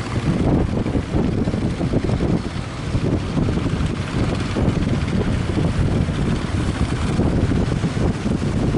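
Strong wind buffeting the microphone: a loud, steady low rumble that flutters in level.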